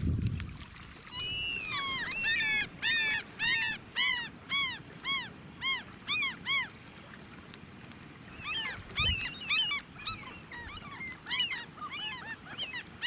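Gulls calling in a run of repeated, arched cries, about two a second; the calls pause for a couple of seconds and then start again in a second, more ragged run.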